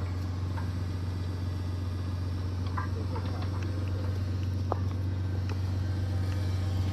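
Tractor engine running steadily under load as it drives a post-hole auger into frozen ground, with a few faint knocks and scrapes as the auger grinds on buried concrete and rock.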